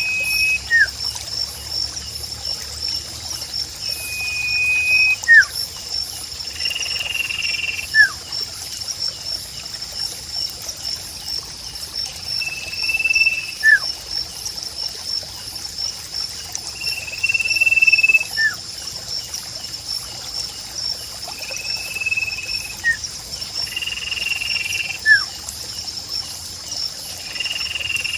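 A sirpu's clear whistled note, held about a second and followed by a short downward-sliding note, repeating every four to five seconds. Under it runs steady trickling water and a fast, high-pitched pulsing chirp.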